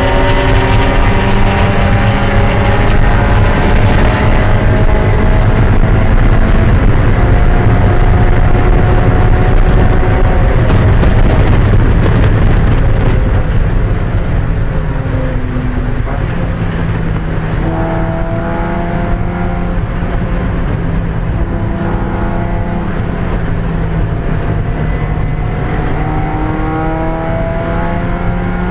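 1995 Mazda Miata's 1.8-litre four-cylinder engine at race speed. It pulls with its note climbing slowly through the first half, drops in pitch and loudness around the middle, then runs steadier and a little quieter to the end.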